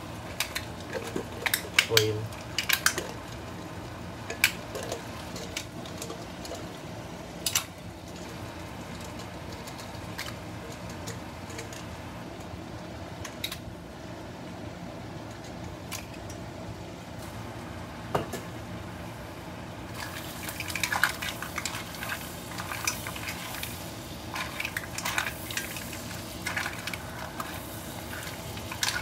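Raw shrimp and mussels sizzling in hot garlic butter in a pot, with scattered clinks and scrapes of a spatula and bowl against the pot as they are tipped in and stirred; the clatter is busiest in the first few seconds and again from about twenty seconds in.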